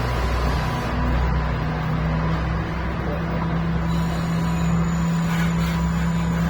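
Alishan Forest Railway train running, a steady rumble with a constant low hum.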